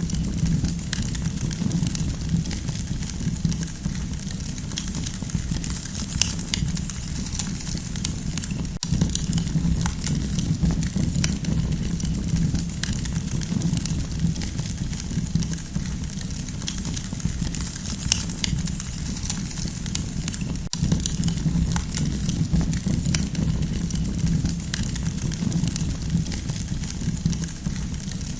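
Campfire burning steadily, with a low constant rumble and irregular sharp crackles and pops from the wood.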